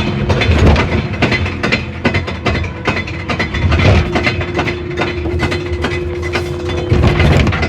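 Amusement-ride machinery clattering, with many irregular knocks and rattles over a low rumble and a steady motor hum.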